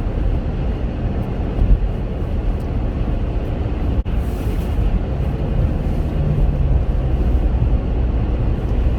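Steady low road and engine rumble inside the cabin of a moving Chevrolet Captiva, with a brief dropout about four seconds in.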